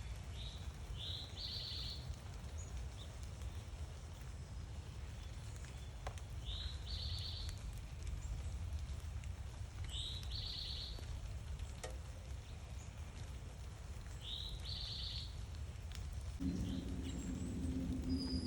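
A songbird singing a short phrase over and over, about every four seconds: a brief high note, then a quick trill. A low rumble runs underneath, and a low steady hum comes in near the end.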